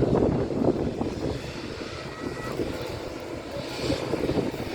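Airliner engine noise rumbling steadily across an airport, with gusts of wind buffeting the microphone.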